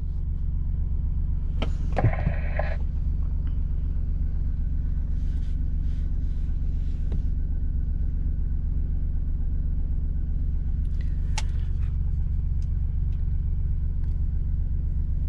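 Engine of a farm machine running steadily, a low drone heard from inside its cab, with a brief sharp noise about two seconds in.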